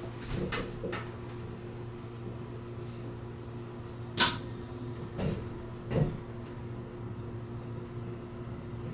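Steady low electrical hum of an E257-series electric train, with a few scattered knocks and clicks over it. The sharpest click comes about four seconds in, and duller knocks follow about one and two seconds later.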